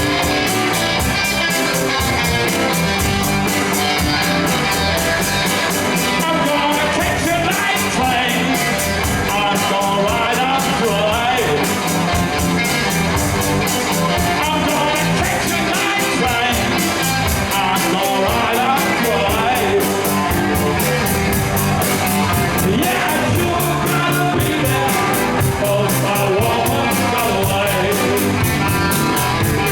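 Live blues band playing an upbeat rock-and-roll number: electric guitar and drum kit with a steady beat, and singing.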